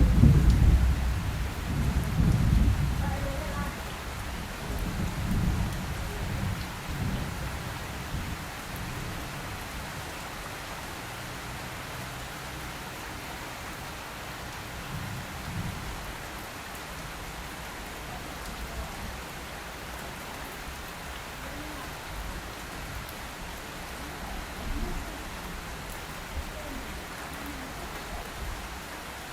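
A clap of thunder breaks loudly at the start and rumbles away in rolling waves over about seven seconds, over steady rain falling.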